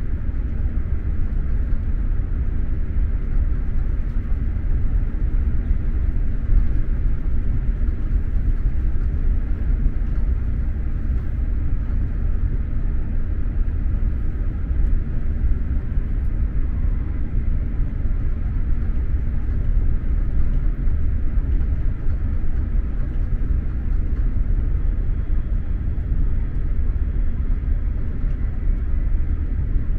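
SJ X2000 high-speed electric train running at steady speed, heard from inside the passenger carriage as a constant low rumble of wheels on track with a fainter hiss above it.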